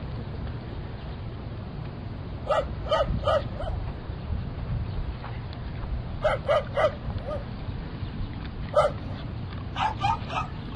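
A dog barking in quick groups of short, high barks: three at a time, then three more, a single bark, and another three near the end, over a low background rumble.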